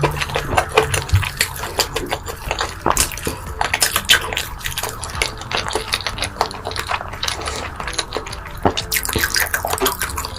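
Close-miked eating: wet chewing and mouth smacking, full of rapid, irregular clicks and crackles.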